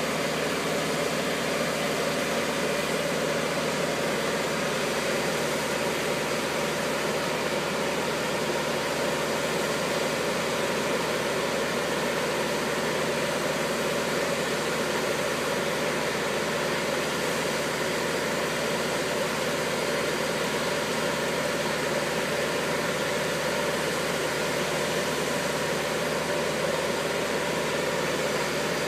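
Engine of a boat gantry (mobile travel lift) running steadily at an even speed, a constant drone with no change in pitch or level.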